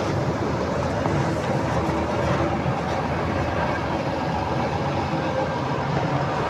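Truck driving along: steady engine and road noise with a faint, even engine hum.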